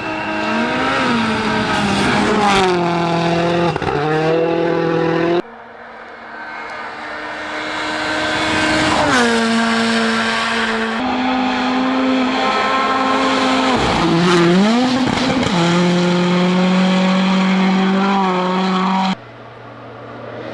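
Rally1 cars at full attack, their turbocharged four-cylinder engines revving hard and shifting through the gears, the pitch climbing and dropping sharply with each shift, over tyre noise. The sound cuts abruptly three times from one car to another.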